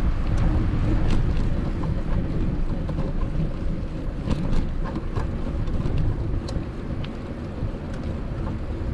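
Wind buffeting the microphone as a steady low rumble, with a few faint scattered ticks.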